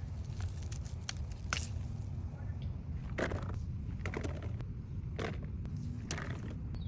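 Pepper plants rustling by hand, with scattered short crackles and snaps as peppers are picked, over a steady low rumble.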